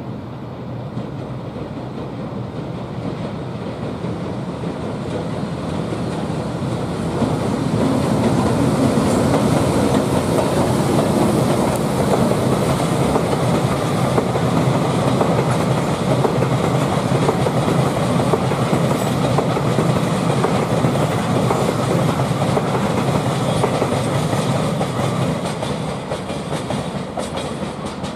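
Freight train of Taki tank wagons, hauled by an EH500 AC/DC electric locomotive, passing at slow speed with a steady running noise of wheels on rail. It grows louder about seven seconds in and eases off near the end as the wagons roll by.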